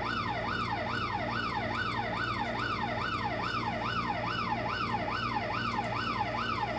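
Electronic siren on a fast yelp, its pitch sweeping up and down about three times a second without a break, over a steady low hum.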